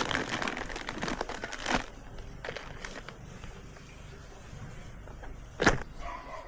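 Light rustling and crinkling handling noises, with a sharp knock about five and a half seconds in.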